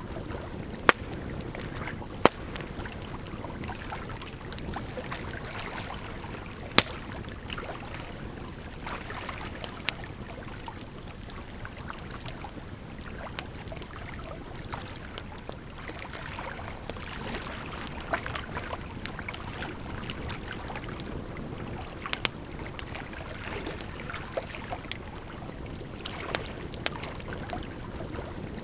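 Firewood burning, with sharp crackles and pops at irregular intervals, over a steady rush of running water.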